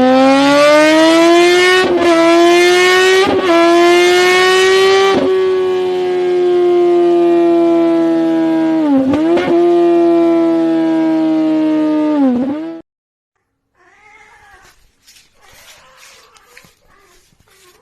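A cat's long, loud yowl, drawn out for about twelve seconds with a few short breaks. Its pitch slowly rises and dips now and then, and it cuts off suddenly. A few faint meows follow.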